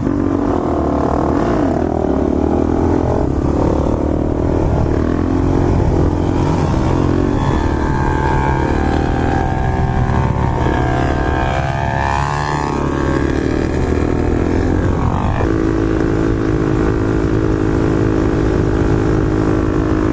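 Motorcycle engines running on a group street ride, the pitch rising and falling through the middle as the bikes change speed, then holding steady for the last few seconds.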